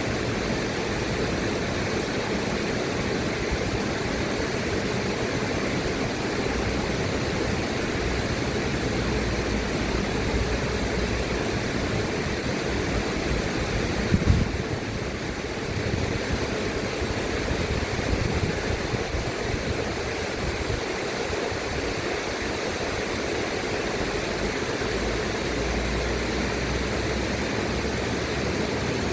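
River water flowing steadily in a constant rushing hiss. A brief low thump comes about halfway through.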